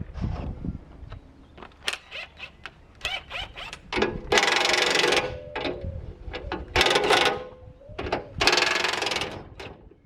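A ratchet-type mechanism working: scattered sharp clicks, then three loud rasping runs about a second long each.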